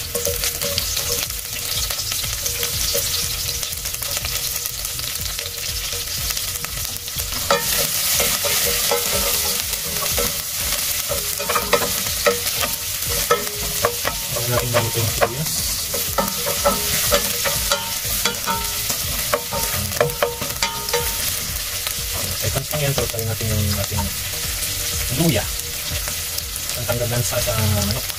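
Chopped garlic and sliced red onions sizzling in hot oil in a stainless steel pot as they are sautéed, with a utensil clicking and scraping against the pot as it is stirred, most often in the second half.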